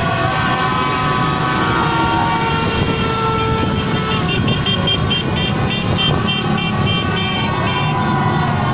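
Many vehicle horns, mostly motorbike horns, honking at once in overlapping steady tones, some bending in pitch, over a dense rumble of engines. About four seconds in, a fast run of short repeated beeps joins and goes on until near the end.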